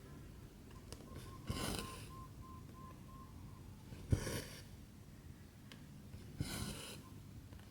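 Needle and cotton thread pulled through 14-count cross-stitch fabric. Three strokes about two and a half seconds apart, each a short tap followed by a brief rasping pull of thread.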